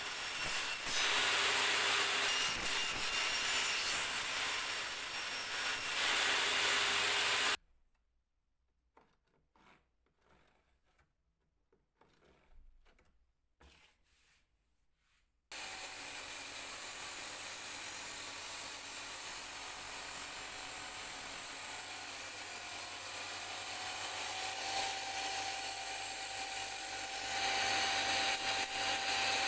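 A tool working wood with a steady, even rasping noise, typical of sanding or sawing. It drops to near silence with a few faint taps for several seconds in the middle, then starts again.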